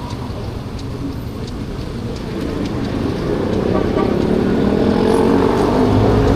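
Kymco Like 50cc scooter being ridden through city traffic: its small engine running under wind and road noise, getting louder about halfway through.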